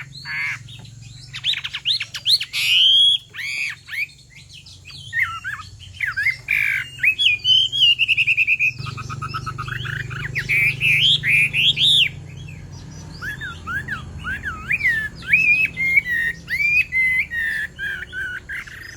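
Chinese hwamei singing a loud, varied song of whistled phrases that sweep up and down, with a fast trill of repeated notes about eight seconds in. A low steady hum runs underneath.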